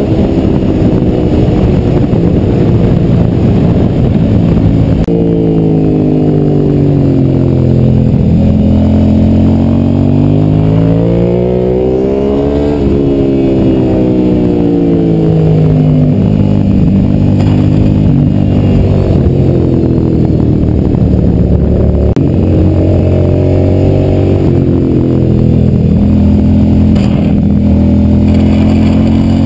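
Suzuki SV motorcycle's V-twin engine running hard on track, its pitch climbing under acceleration and dropping again several times as it shifts gear and slows for corners.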